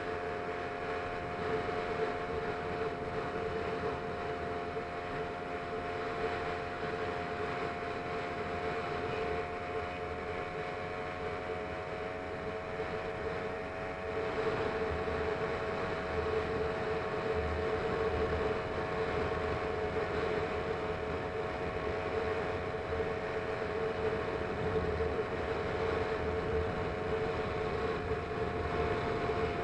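Small engine of a motorized bicycle running at a steady speed, with an even drone, stepping up in loudness about halfway through.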